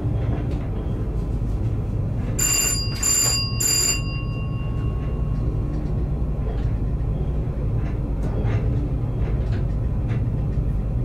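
Electric train running along the track, heard from the driver's cab as a steady low rumble with light clicks from the rails. About two and a half seconds in, a bell chime rings three quick times, its tone lingering briefly after the last stroke.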